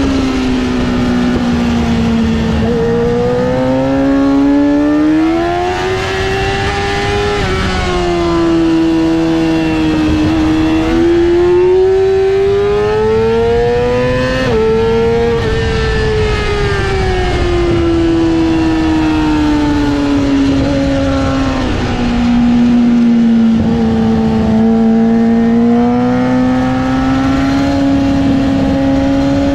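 Yamaha R6 sport bike's inline-four engine at track speed, its pitch climbing under acceleration and sinking as it slows, several times over. The pitch drops suddenly at a gear change about halfway through.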